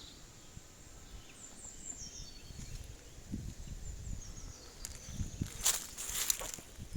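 Quiet outdoor background noise with a low rumble. A few short scuffs or rustles come near the end.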